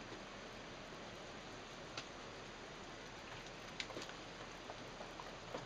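Faint wet sounds of a cat being washed in a sink of soapy water: a steady hiss with a few sharp ticks and drips, about two seconds in and around four seconds.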